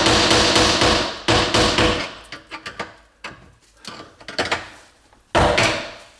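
Repeated hammer blows on the stuck locknut of an old kitchen sink strainer, struck to break it loose: a quick run of loud ringing strikes at the start, lighter knocks after, and another hard blow near the end.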